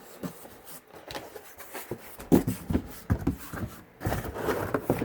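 Cardboard shipping box and its packing being handled and rustled open, with irregular knocks and scrapes; the loudest knock comes a little past two seconds in.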